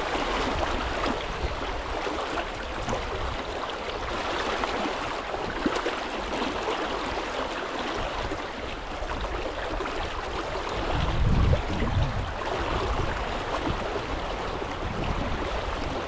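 Fast river current rushing steadily over a rocky bed. A brief low rumble comes about eleven seconds in.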